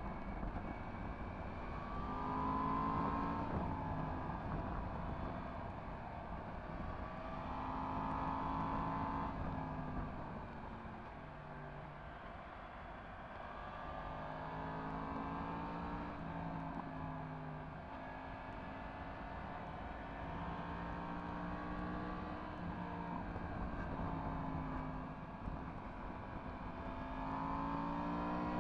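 Yamaha MT-10 SP's crossplane inline-four engine with an Akrapovič exhaust, heard while riding: the engine note rises and falls again and again as the throttle is opened and closed.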